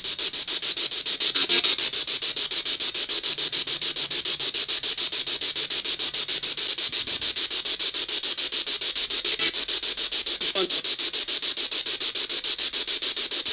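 Spirit box (ghost box) scanning through radio stations: steady static chopped into rapid, even pulses, with brief voice-like fragments breaking through a couple of times.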